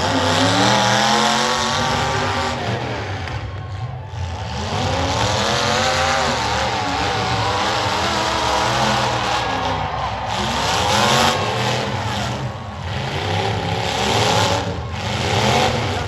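Several demolition derby cars' engines revving hard and easing off again and again, their pitch rising and falling.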